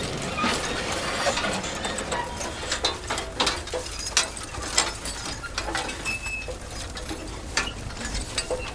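Mechanical clicking and rattling from a tool or mechanism, in irregular sharp clicks.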